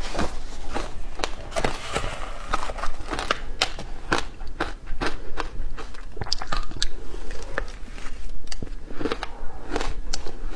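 Frozen matcha ice being bitten and chewed close up: a rapid, irregular run of sharp crunches and cracks.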